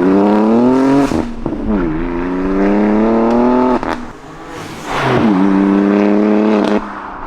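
BMW G82 M4's twin-turbo straight-six accelerating hard through the aftermarket exhaust with its valves opened by a valve controller; three times the revs climb steadily and then break off at a shift, about a second in, near four seconds and near seven seconds.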